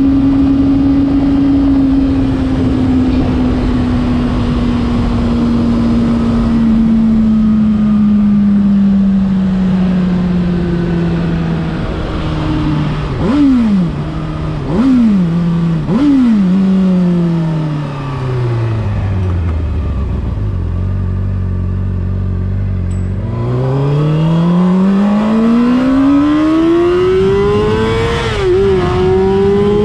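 Honda CBR600RR inline-four sportbike engine slowing down on a closed throttle, with three quick throttle blips on downshifts about halfway through. It holds a low steady note for a few seconds, then accelerates hard, its pitch climbing through an upshift near the end, over wind noise.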